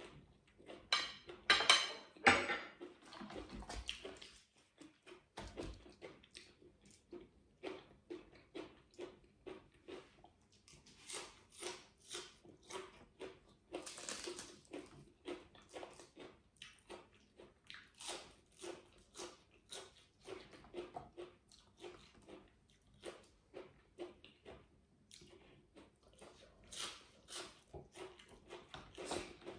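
Close-up chewing of a mouthful of stir-fried pork and bok choy, a steady run of moist chewing sounds at about two a second. A few louder crunches and clicks come in about one to two seconds in.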